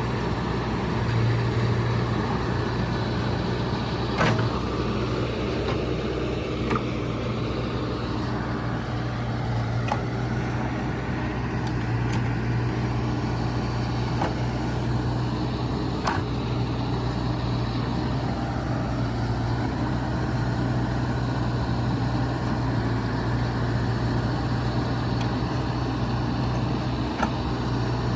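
John Deere 310SK backhoe's diesel engine running steadily with a low, even hum, with a few sharp clicks or knocks now and then.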